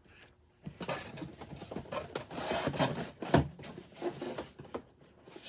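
Cardboard boxes rubbing and scraping together as boxed collectible figures are handled and unpacked, with a sharp knock about three and a half seconds in.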